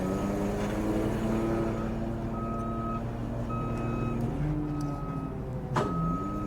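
A diesel engine on heavy equipment runs and changes speed while its backup alarm beeps about once a second. A sharp clank sounds near the end.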